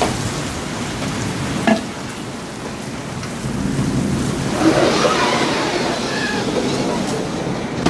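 Heavy thunderstorm rain falling steadily, with a rumble of thunder swelling up through the second half. A single sharp click sounds near the two-second mark.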